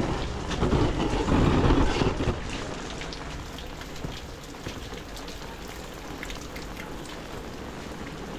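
Heavy rain falling: an even hiss with many scattered sharp drip and drop ticks. A louder low rush swells for about two seconds near the start.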